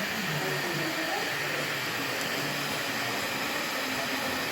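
Vacuum cleaner running steadily, a constant rushing noise, with faint voices underneath.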